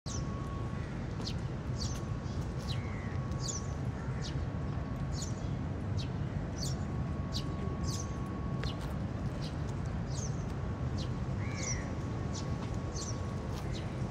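Small birds chirping, short high falling notes at about one and a half a second, over a steady low background rumble. A faint steady whine comes and goes.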